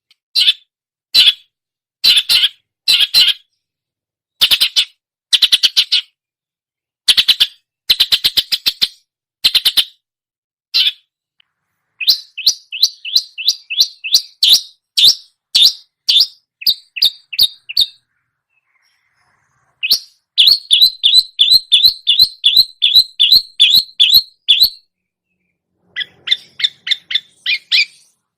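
Long-tailed shrike (cendet) singing in bursts of rapid, repeated sharp chattering notes with short pauses between phrases, its song mixing imitations of other songbirds. After the first stretch the notes run faster and closer together in longer strings.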